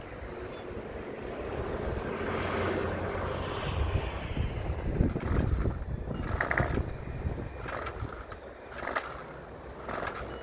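A chainsaw's pull-start cord being yanked again and again, about five pulls a little over a second apart in the second half, with the engine not catching.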